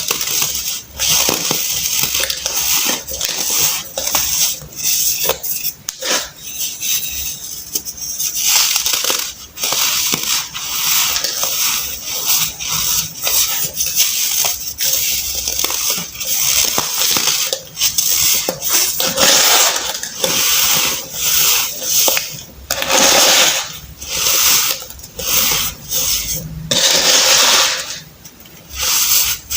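Compacted baking soda being crushed and crumbled, an irregular run of crisp crunching and crackling, with a few louder, longer crumbles in the second half.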